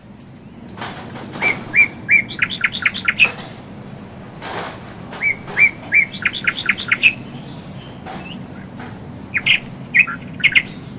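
A bird chirping in three runs of quick, high notes, each run a second or two long, spaced a few seconds apart.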